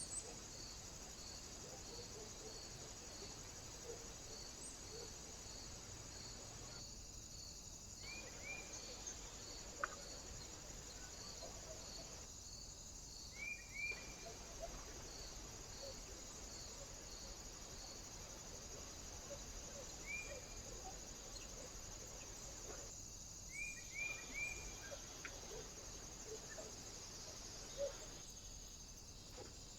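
Faint short chirps, some in pairs or threes, from small birds at a feeder, heard a few times over a steady high hiss, with soft regular ticking higher up through much of it.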